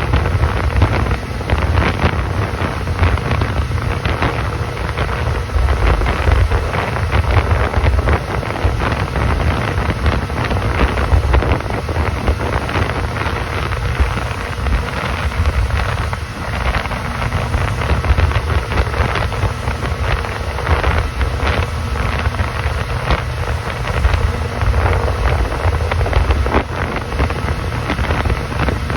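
Wind buffeting the microphone on a moving motorboat, a steady rush with frequent gusty thumps over the low rumble of the boat's motor and water.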